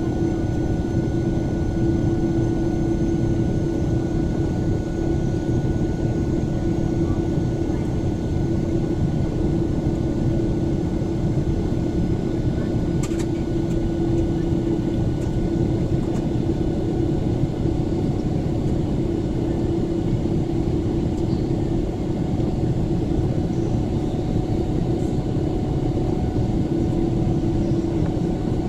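Jet airliner cabin noise after takeoff: a steady drone of engines and airflow with a constant hum running through it, and one small click near the middle.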